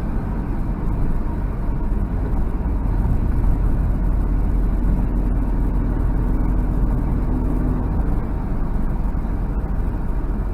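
Cabin sound of a 1990 Nissan Fairlady Z (Z32 300ZX) twin turbo under way: its 3.0-litre twin-turbo V6 and road noise, a steady low rumble.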